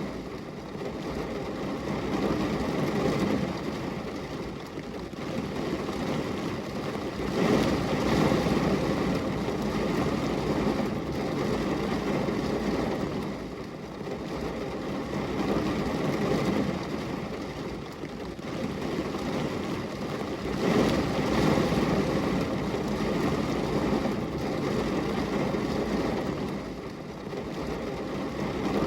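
Steady rain on a glass window: a dense rushing noise that swells louder a few times and then eases.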